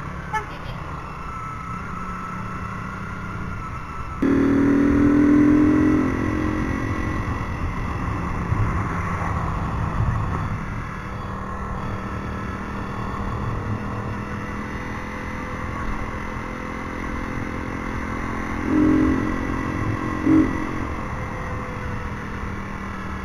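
Motorcycle engine running steadily. A louder pitched tone cuts in suddenly about four seconds in for about three seconds, and two brief ones come near the end.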